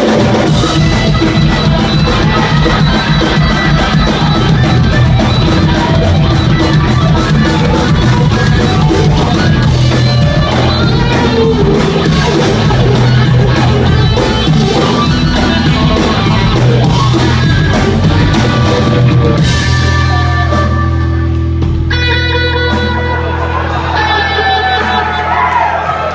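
Rock band playing live, loud, with electric guitar, bass and a fast steady drumbeat. About 19 seconds in the drumming thins out, leaving held bass and guitar notes.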